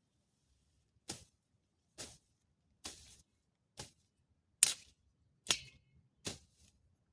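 Seven sharp strikes at a steady pace, a little under one a second, each dying away quickly, the loudest about halfway through.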